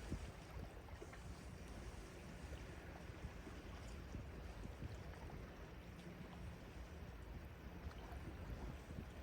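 Faint, steady wash of the sea at the shore, with a low rumble and small scattered ticks.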